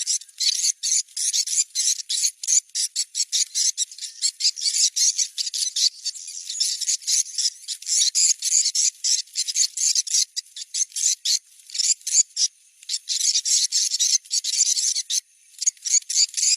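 Swiftlet lure recording, the 'location check' call played to draw wild swiftlets to a prospective nest-house site: dense, rapid, high-pitched chirping and twittering, with a couple of short breaks.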